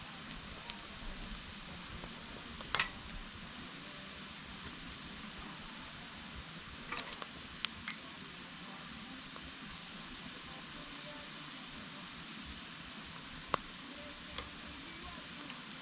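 Wood campfire burning with a steady hiss and scattered sharp crackles and pops: the loudest about three seconds in, a small cluster around seven to eight seconds, and two more near the end.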